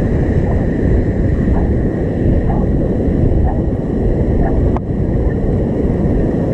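Strong wind buffeting the microphone over the steady rush of ocean surf, with one sharp click a little under five seconds in.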